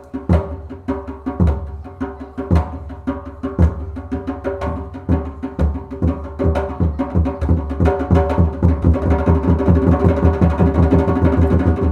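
Music led by drums: slow, heavy drum beats about once a second that quicken into a fast, louder beat over held sustained notes.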